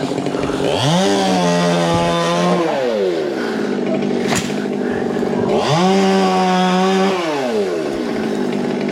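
Chainsaw idling and revved up twice: each time the engine climbs to full speed, holds for about two seconds, then drops back to idle. A sharp click comes between the two revs.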